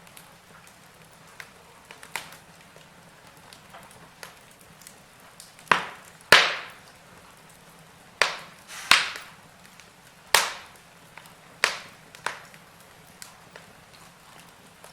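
Wood fire in a fireplace crackling over a faint steady hiss, with a run of sharp pops through the middle, the loudest about six seconds in.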